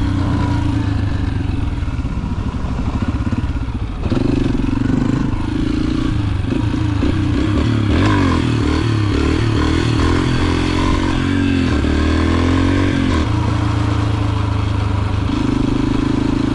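Yamaha TT-R125 dirt bike's single-cylinder four-stroke engine running while riding. The revs sag for a moment, pick up again about four seconds in, then rise and fall repeatedly before holding steady near the end.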